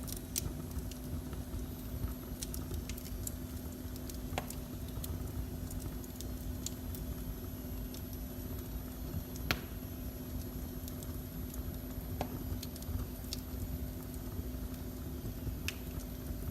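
Wood fire burning in a fireplace: a steady low rumble with scattered sharp crackles and pops, the loudest about nine and a half seconds in. A steady low hum runs underneath.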